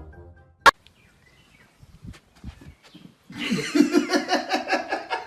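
A sharp click under a second in, then an animal's call of rapid, evenly pulsed cries for about two seconds, fading near the end.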